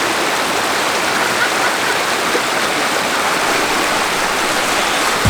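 Steady rush of a creek pouring over rocks and down a waterfall.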